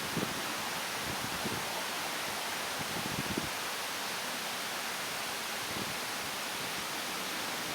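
Steady hiss of outdoor background noise, with a few faint, soft rustles.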